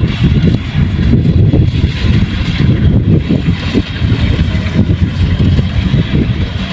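Kubota rice combine harvester running, its engine and machinery making a loud, steady, low rumble.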